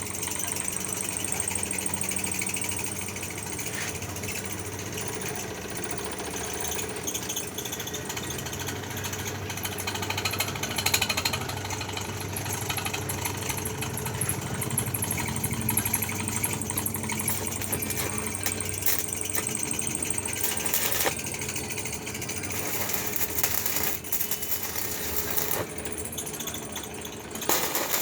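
Electric arc welding on foundation bolts: a dense, steady crackle of the arc over the low hum of the welding machine.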